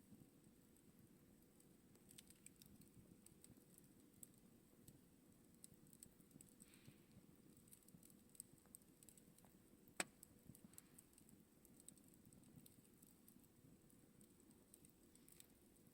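Campfire burning quietly: faint scattered crackles and ticks over a low rumble of flame, with one sharper pop about ten seconds in.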